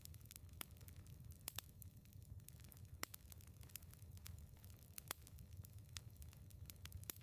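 Firewood burning in a fireplace, crackling with irregular sharp pops over a low, steady rumble of the flames. The loudest pops come about three and five seconds in.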